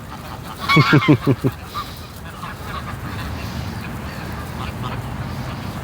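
Flock of greylag geese calling: a quick run of about five loud honks about a second in, then softer scattered calls from the flock.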